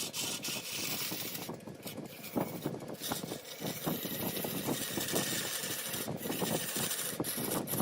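Large wood lathe running while a cutting tool scrapes the spinning wood, an irregular rough grinding noise.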